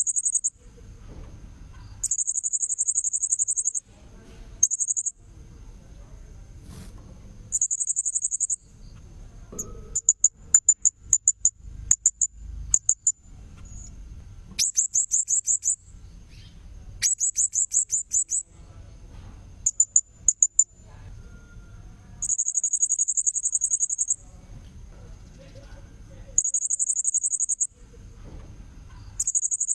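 Blue-crowned hanging parrot (serindit) calls played as a bird-lure recording: repeated high, buzzy trills lasting one to two seconds, with bouts of quick, sharp chirps in between.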